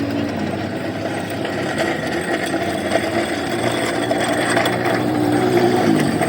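A machine's motor running steadily, its pitch dipping briefly near the end.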